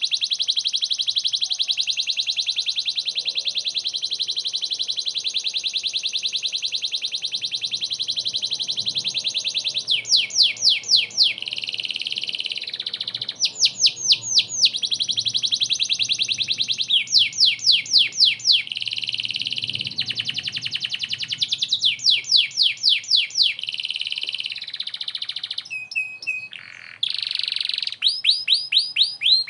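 Domestic canary in full song: a long, very fast, high trill for about the first ten seconds, then repeated runs of quick downward-sliding notes in short bursts with brief pauses between them.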